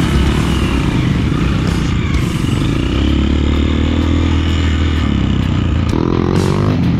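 Off-road motorcycle engine running under way, its pitch shifting with the throttle, then revving up near the end.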